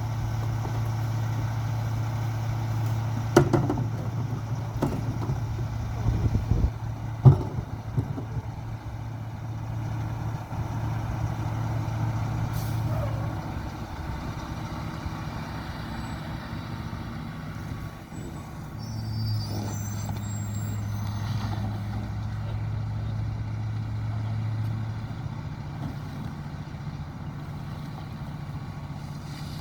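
Diesel engine of a Mack Granite rear-loader garbage truck running at raised speed, drops back about 13 seconds in, and rises again for several seconds near 19 seconds, as the McNeilus packer cycles. Several sharp bangs and knocks of trash and cans hitting the hopper come in the first seven or so seconds.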